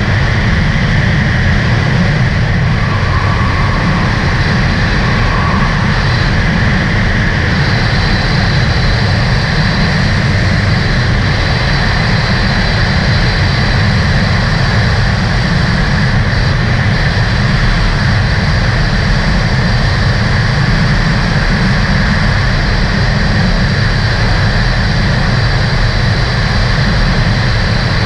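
A 2018 Sea-Doo RXT-X 300 personal watercraft, its supercharged Rotax engine running steadily under way, loud and even. A thin high whine comes in more strongly about seven seconds in.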